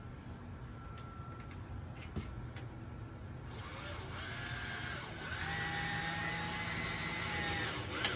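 Power drill driving a screw into a wooden shelf support board in two runs of its motor whine: a short run rising in pitch about three and a half seconds in, then a brief stop, then a longer, steadier run that ends just before the close.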